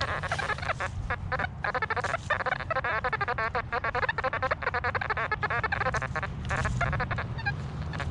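Metal detector giving squawky, warbling, broken-up tones as the coil sweeps over an aluminium pull tab amid iron nails, the chopped tone changing many times a second.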